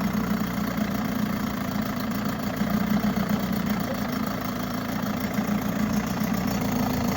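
A 1980s Mercury 7.5 hp two-stroke outboard idling steadily.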